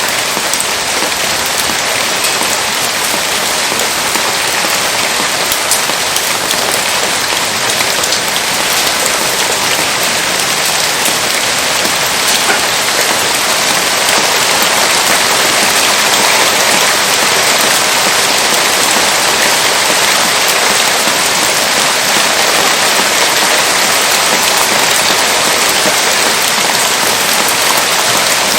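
Heavy rain falling steadily in a dense hiss of drops, getting slightly louder about halfway through.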